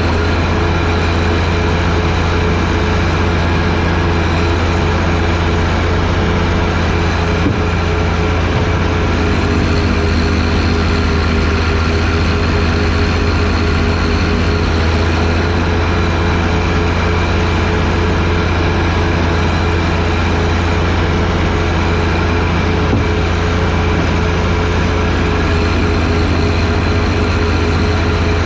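John Deere 1025R sub-compact tractor's three-cylinder diesel running steadily at working speed, driving a 47-inch front-mounted snowblower.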